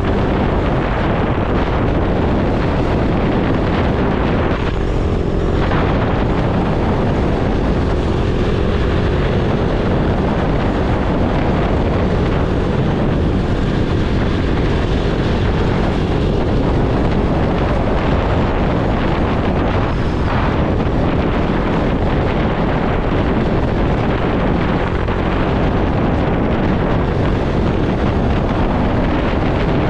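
Motorcycle riding at steady speed: heavy wind noise on the microphone over the engine running steadily.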